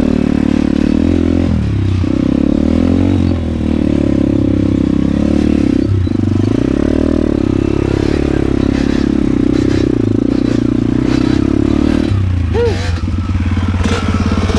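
Modified Yamaha DT125 single-cylinder two-stroke dirt bike engine running under changing throttle, its pitch rising and falling. About twelve seconds in it settles to a lower, steadier note.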